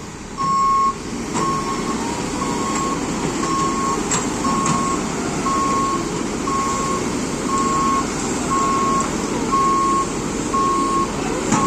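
Tata Hitachi excavator's travel alarm beeping over and over at an even pace at one pitch, with its diesel engine running underneath.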